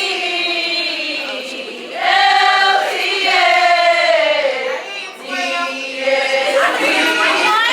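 Several voices singing together like a choir, holding long notes and sliding between them in phrases.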